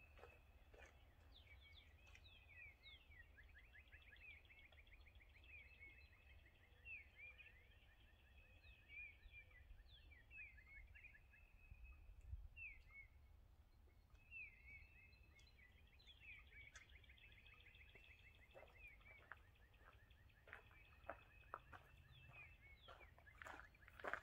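Faint songbirds chirping and trilling outdoors over a low wind rumble. Near the end, footsteps crunch on gravel as someone walks closer.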